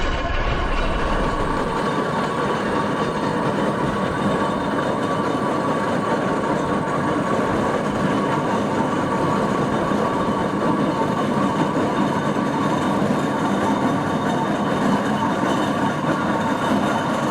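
Steam traction engine running along the road: a steady mechanical running noise from its gearing and motion, without a break.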